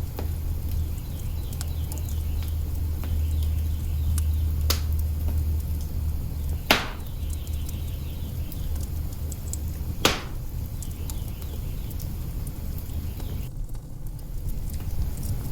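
Wood fire burning in an open hearth: a steady low rumble with scattered soft crackles and a few sharp pops, the two loudest a few seconds apart near the middle.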